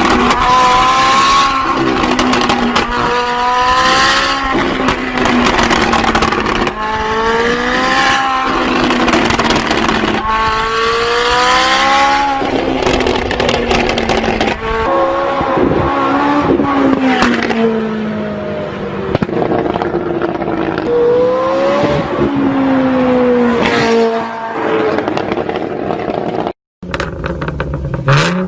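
Car engine with a loud aftermarket exhaust, revved up and down over and over. The pitch climbs and drops every couple of seconds, with a short break near the end.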